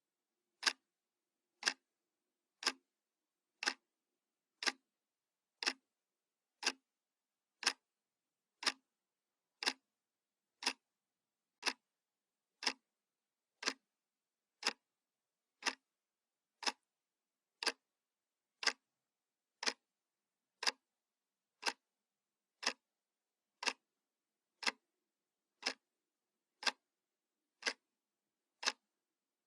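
Analog clock ticking steadily, one sharp tick a second, with silence between the ticks.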